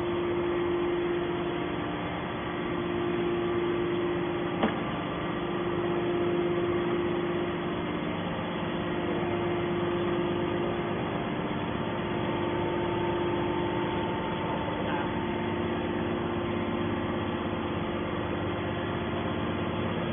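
Hydraulic scrap-metal baler running, a steady machine hum with a constant tone, and a single sharp click about four and a half seconds in.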